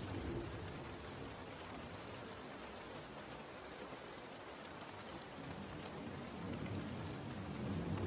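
Steady rain falling, an even hiss with scattered drop ticks; a low rumble fades out in the first moments and builds again near the end.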